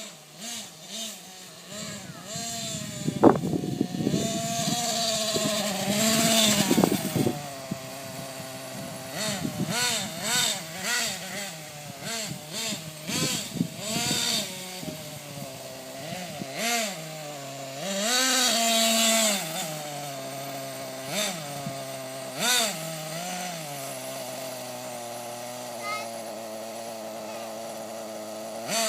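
Small nitro RC monster truck engine idling with a buzzy note, revved up and down in repeated short throttle blips, with one longer rev past the middle. A sharp knock sounds about three seconds in.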